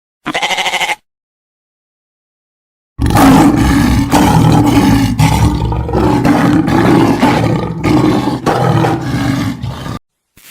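Animal calls: one short call of under a second, then after a gap of about two seconds a loud, rough call lasting about seven seconds that swells and fades about twice a second, cut off abruptly.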